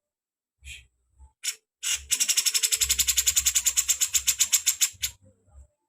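Songbird calling: a few separate sharp notes, then a loud rapid trill of about ten notes a second lasting about three seconds that stops abruptly.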